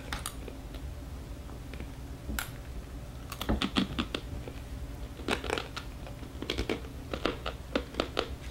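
Crunchy chewing of dried edible scorpions: short spells of sharp, crackly crunches with pauses between them.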